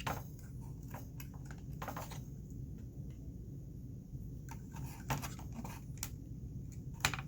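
Scattered small clicks and light scratching from handling an opened electronic talking toy and its circuit, over a steady low hum.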